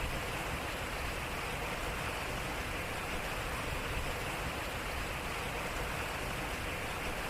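Water running and splashing steadily at a turning water wheel, an even rushing sound with no breaks.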